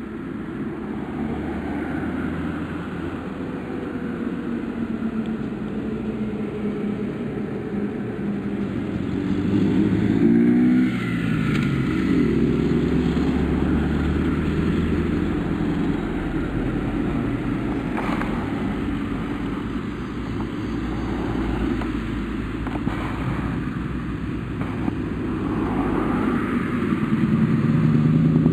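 Heavy trucks' diesel engines running and driving past, their pitch rising and falling as they rev and pass, loudest about ten seconds in and again near the end.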